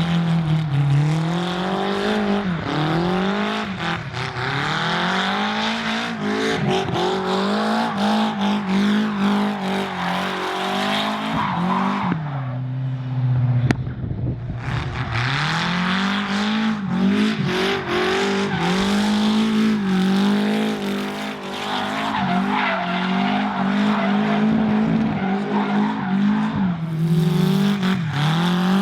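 BMW S63B44 4.4-litre twin-turbo V8 of a 1M drift car, through a very short exhaust, revving up and falling back again and again while the tyres squeal in a drift. Around halfway the engine drops to a lower, steady note for a moment before rising again.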